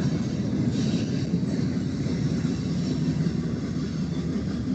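Steady low rumble of a train, with no strikes or changes.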